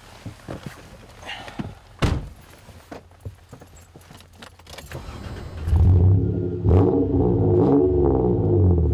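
Keys jangling and clicking at the ignition, then about five seconds in a vehicle engine cranks and starts on a cold start in snow, running loudly with the revs rising and falling.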